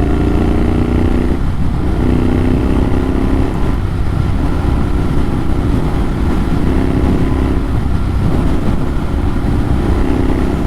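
Motorcycle exhaust running through an aftermarket AEW TE102 silencer with its dB killer removed: a loud, steady, unbaffled engine note. A set of held tones in it drops away and comes back every second or two.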